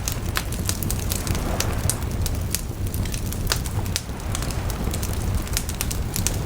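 Wood bonfire burning, with irregular sharp crackles and pops over a steady low rumble.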